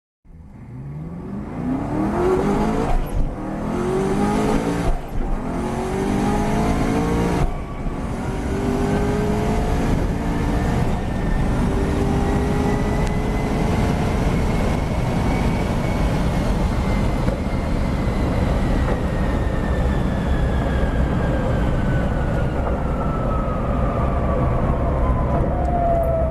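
Hennessey Venom GT's twin-turbocharged V8 at full throttle in a standing-start sprint, revving up through the gears with quick shifts in the first eight seconds. It then holds a long, loud pull in a high gear, with a high whine that rises and then slowly falls.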